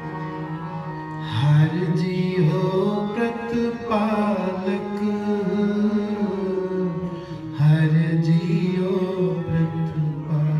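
Sikh kirtan: a harmonium holds steady drone notes while a male singer draws out long, gliding sung phrases over it, two of them in turn.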